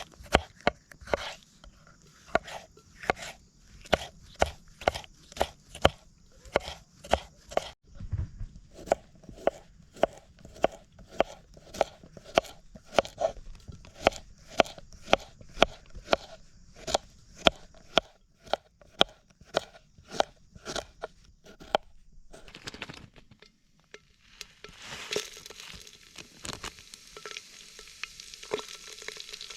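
A knife chopping on a cutting board in steady strokes, roughly two a second. Near the end the chopping stops and a steady sizzle of food frying begins.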